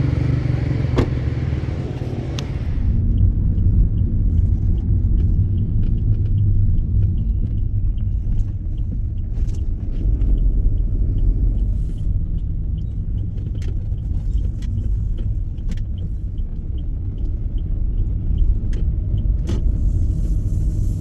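Car driving: a steady low rumble of engine and road noise. The higher hiss drops away about three seconds in, leaving the rumble with scattered light clicks and rattles.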